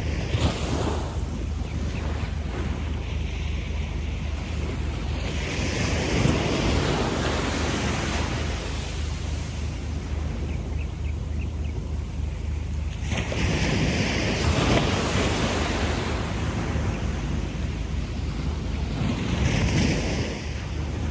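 Gentle sea waves washing up and back on a sandy beach: three waves swell and fade, about six to seven seconds apart, over a steady low rumble of surf.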